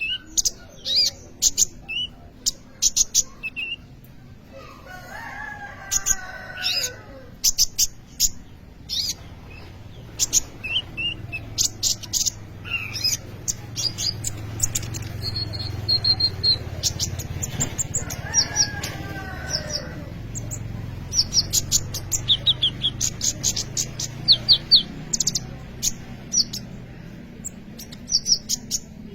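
Kolibri ninja sunbird singing in a fast, busy string of very high, thin chirps and short trills. Twice, once around six seconds in and again past the middle, a lower drawn-out call sounds in the background, over a faint low rumble.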